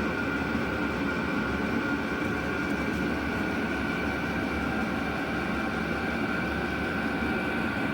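Chinese diesel air heater running steadily: a constant low combustion rumble under the even whine of its blower fan.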